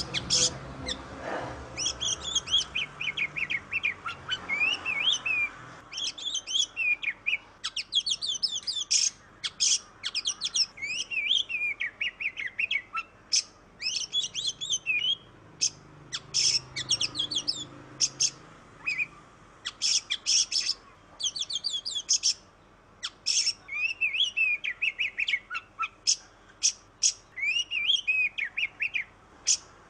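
Oriental magpie-robin (kacer) singing a long, varied song of high whistles and rapid chirps, delivered in quick phrases with short pauses between them.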